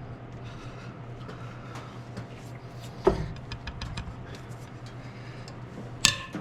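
Head bolts being loosened on an International R-110's cylinder head: a loud sharp crack about three seconds in as a bolt breaks loose, a quick run of ratchet clicks, and a sharp metallic clink near the end, over a steady low hum.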